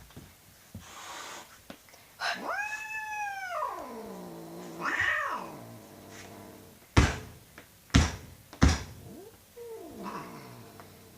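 Angry domestic cat growling and yowling: a long drawn-out yowl that rises and then falls in pitch, a shorter one after it, and a lower moan near the end. Three sharp knocks sound in between.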